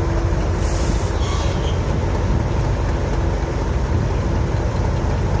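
Diesel railway locomotive engine running steadily, a constant low rumble with a steady hum, with a short hiss about a second in.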